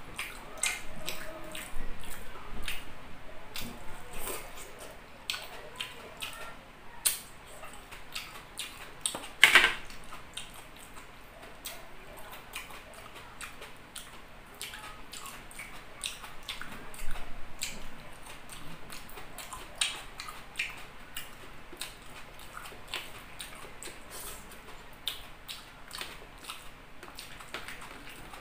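Close-miked chewing and lip-smacking of a person eating rice and chicken liver adobo by hand, a steady run of short wet clicks, with one louder smack about nine and a half seconds in.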